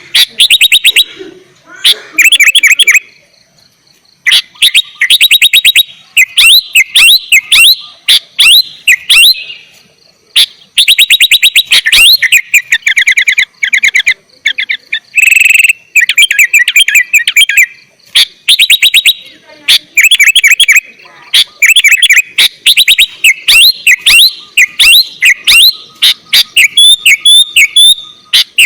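Sooty-headed bulbul (kutilang) in full, vigorous song, loud and rapid: phrase after phrase of quick chattering notes, with short pauses between them.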